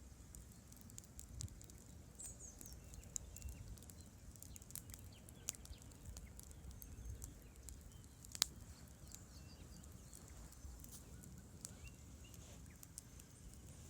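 Wood campfire crackling with scattered sharp pops, the loudest snap about eight seconds in, over a low steady rush.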